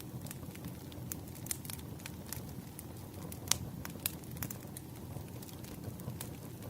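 Wood fire crackling: a steady low rumble of burning logs with irregular sharp pops, one louder pop about halfway through.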